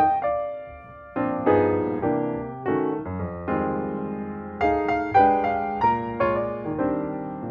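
Background piano music: a melody of separate notes, each struck and fading, with a short pause about a second in.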